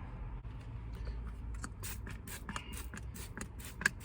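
Protective liner being peeled off a sheet of window tint film: a run of crinkling and crackling starts about a second and a half in, with one sharper click near the end, over a low steady rumble.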